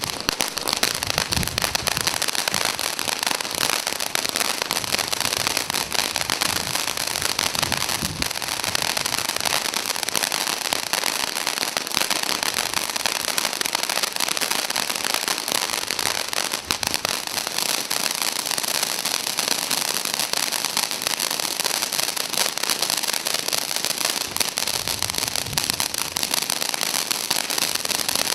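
Consumer firework fountain burning: a steady spray of hissing and dense crackling that dies away right at the end.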